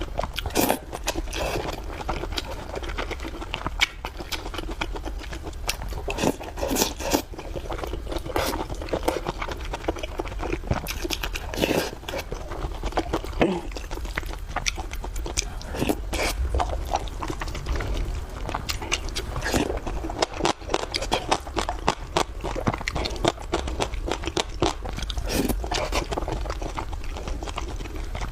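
Close-miked eating: steady chewing and biting, with frequent wet clicks and small crunches.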